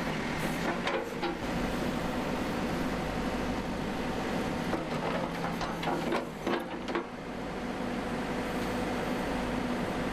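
Backhoe engine running steadily, with a few short clanks about a second in and a cluster of them between five and seven seconds in.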